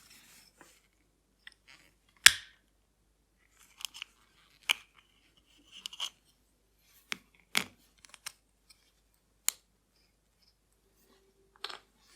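Small metal watchmaking hand tools clicking and tapping on a workbench: about a dozen short, sharp clicks at irregular intervals, the loudest about two seconds in.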